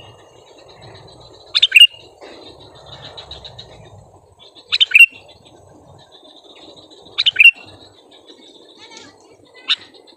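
Sooty-headed bulbul calling: four loud, short, bubbly chirp phrases about every two and a half to three seconds, then a fainter one near the end, over a faint steady high buzz.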